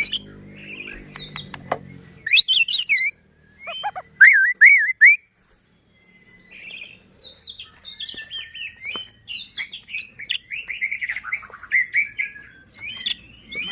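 White-rumped shama (murai batu) singing vigorously: a string of varied whistled phrases and quick, sweeping chirps with a few sharp clicks, broken by a short silence about five seconds in.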